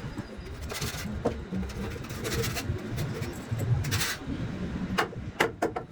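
Hand work on wood: three rasping strokes about a second and a half apart over a low rumble, then a few sharp knocks near the end.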